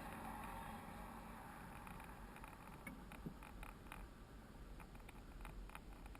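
Faint low rumble of an electric scooter ride, with scattered small clicks and rattles.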